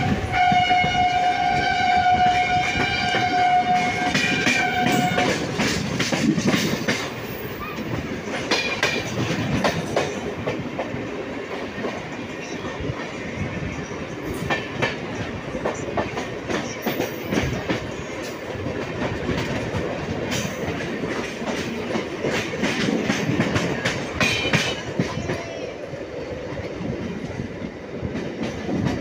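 Train horn sounding one steady tone for about five seconds, then the rumble and clickety-clack of a passenger train's coaches rushing past on the adjacent track.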